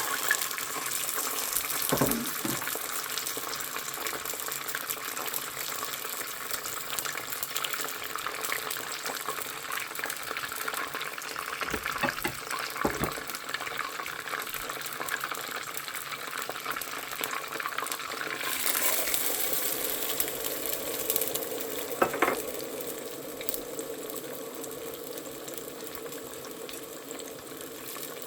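Kitchen water noise: a steady watery hiss, with a few sharp knocks about two seconds in, around twelve seconds and around twenty-two seconds.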